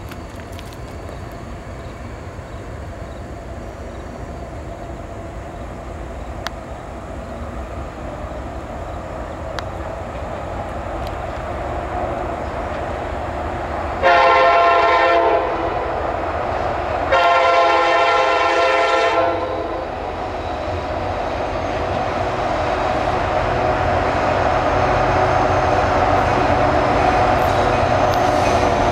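EMD diesel freight locomotive approaching, its engine and wheels growing steadily louder. About halfway through, its air horn sounds two long blasts a couple of seconds apart, the second the longer.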